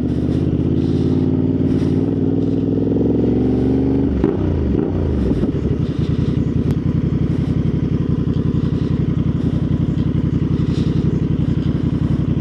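Motorcycle engine running while riding, at loud, steady revs. About four seconds in the engine note swings briefly in pitch, then settles into a steady, even running note.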